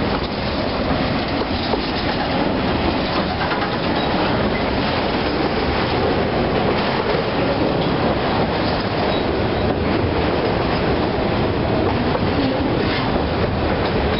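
A freight train of autorack cars rolling past at steady speed, with a continuous noise of steel wheels running over the rails.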